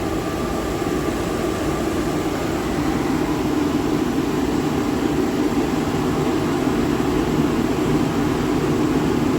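Plant room boiler burner firing, a steady deep rumble of fan and flame that grows a little louder over the first few seconds as the burner is ramped up to a higher firing rate to burn off soot.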